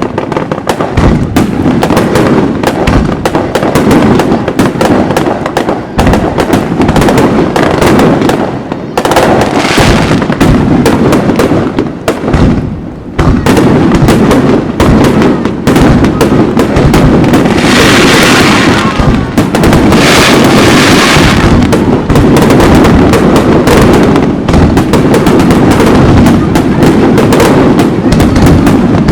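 Fireworks display: a dense, near-continuous barrage of aerial shell bursts and booms. About two-thirds of the way through, a stretch of crackling hiss rises over the bangs.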